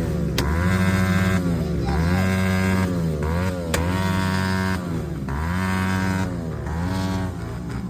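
Motorcycle engine revved over and over, its pitch dropping and climbing back every second or two, with two sharp cracks: one about half a second in and one near the middle.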